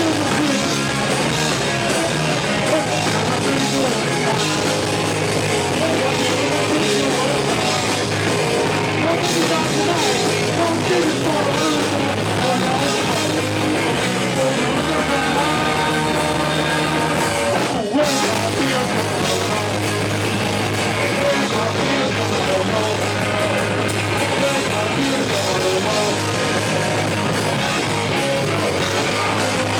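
Live punk-rock band playing a song, with singing over the band, at a steady loud level. The sound cuts out for an instant about two-thirds of the way through.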